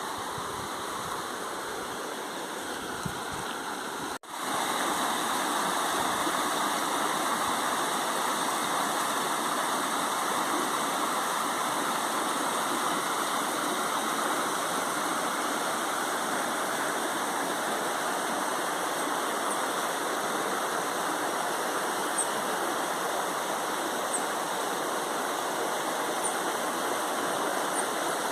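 Waterfall rushing steadily. About four seconds in, the sound drops out for an instant and comes back louder.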